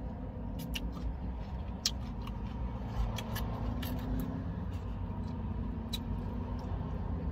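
Close-up chewing and scattered sharp mouth clicks from eating coleslaw, over a steady low rumble inside a car cabin.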